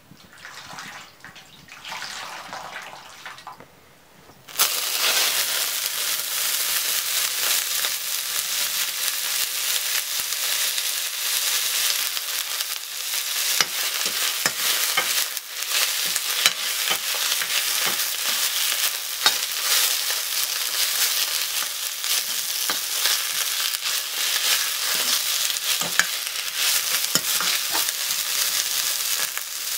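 Leafy greens sizzling loudly in a smoking-hot iron kadai, the sizzle starting suddenly about four and a half seconds in as they go into the pan and then holding steady while they are stirred. Short knocks and scrapes of a wooden spatula against the iron pan come through the sizzle.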